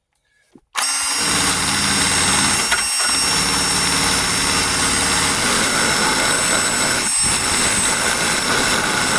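Handheld electric power tool with an abrasive stripping wheel starting abruptly about a second in and running steadily, stripping paint off a truck's steel body, with a high steady whine and two brief dips.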